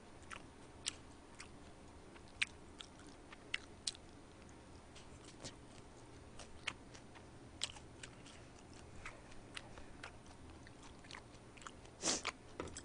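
Faint, close-miked chewing: irregular soft clicks and smacks of a mouth eating, with a slightly louder cluster of mouth sounds near the end.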